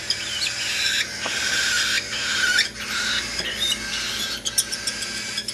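Cockatiel chicks giving begging calls while being hand-fed: a steady, harsh, hissing squawk with short pitch slides.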